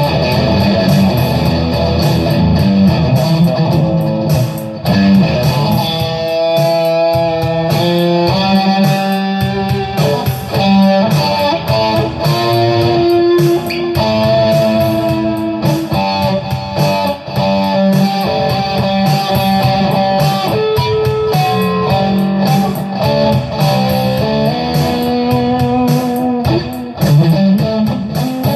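Guitar playing improvised single-note lead lines, moving from note to note through scale runs.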